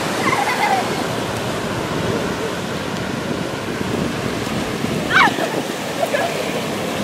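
Ocean surf washing steadily onto the beach, with wind buffeting the microphone. Faint children's voices are heard, with one short high call about five seconds in.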